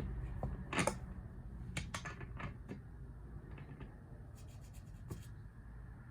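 Light clicks and scraping of hand work on a chainsaw's ignition breaker points, coming in short clusters: about a second in, again around two seconds in, and between four and five seconds in, over a low hum.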